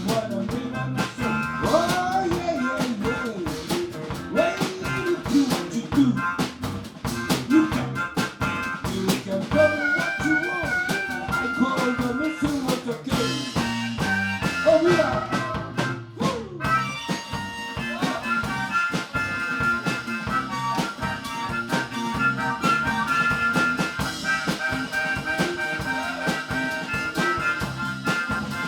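Live band playing an instrumental break in an upbeat song: a steady drum-kit beat under guitar, with a lead instrument playing a wavering melody.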